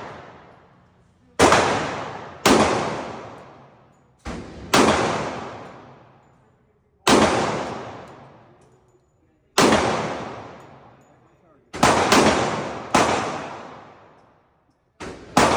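Gunshots, about eight loud single shots spaced one to two and a half seconds apart, each with a long echoing tail, with a few fainter shots in between.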